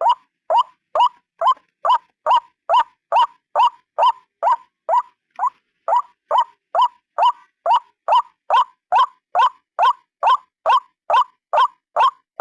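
White-breasted waterhen (ruak-ruak) giving its repeated call, a steady run of short rising notes at about two and a half a second, the monotonous calling used as a lure.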